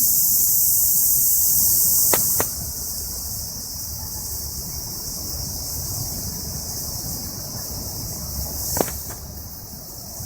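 Dense insect chorus, a steady high-pitched buzzing that drops somewhat in loudness about two and a half seconds in. A few sharp clicks about two seconds in and near the end, over a low rumble.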